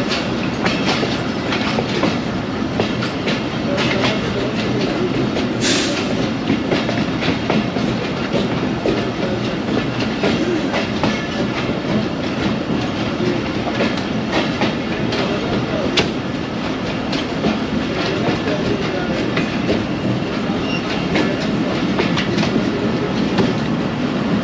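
Tezgam express passenger train running, heard from an open carriage window: a steady rumble with wheels clicking over the rail. There is a sharper clack about six seconds in and another near sixteen seconds.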